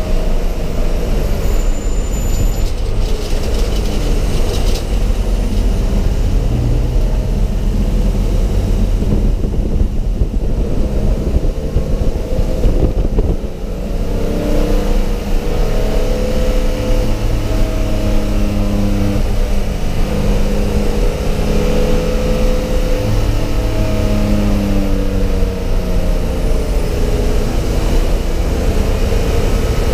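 Race car engine heard from inside a stripped, roll-caged cabin, pulling hard under a heavy low drone. Its pitch rises and falls as the driver accelerates and lifts through the corners, with a brief drop in level about halfway through.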